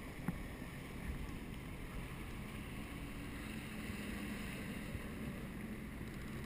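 Jet ski engine running low and steady, a faint low hum that comes up about halfway through, under wind noise on the microphone.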